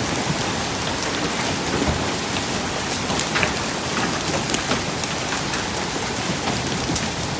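Hail and rain pelting down steadily in a dense hiss, with frequent sharp clicks of individual hailstones striking.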